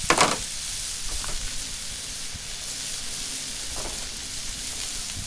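Chopped white onions and sliced yellow peppers sizzling in melted butter on a Blackstone flat-top griddle over medium-high heat, a steady frying hiss. There is a brief louder burst of noise at the very start.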